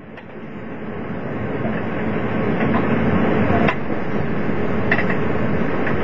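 Running noise heard inside a JNR 381-series electric limited express car: a steady rush of wheels on rail that fades in over the first couple of seconds, with a sharp click about three and a half seconds in.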